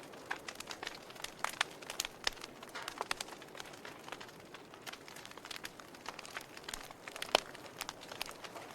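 Wood fire burning in a fireplace, crackling with irregular sharp pops over a soft hiss, one louder pop near the end.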